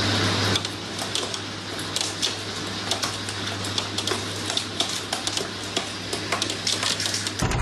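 Storm precipitation hitting a hard surface close by: a dense, irregular patter of sharp ticks over a steady low hum.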